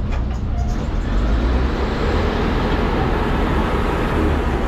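Road traffic noise: vehicle engines running steadily as vehicles pass slowly through a one-lane gap, with no one event standing out.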